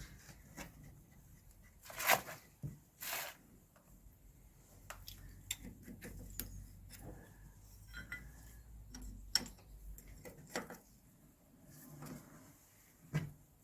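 Scattered light metallic clinks and taps of spanners on hydraulic brake-pipe fittings, with two louder knocks about two and three seconds in.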